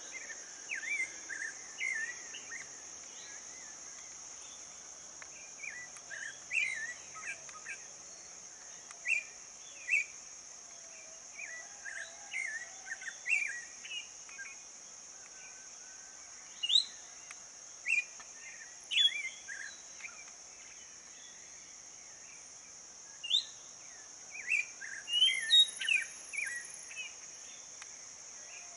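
Songbirds chirping and singing in short, scattered phrases, with several louder calls in the second half, over a steady high-pitched drone of insects.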